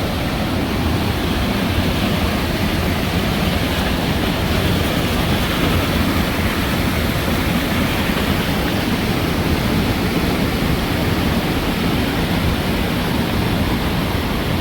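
A waterfall rushing, a steady loud roar of falling water.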